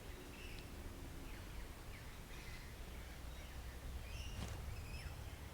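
Wild birds chirping in short, scattered calls over a steady low rumble of outdoor background noise.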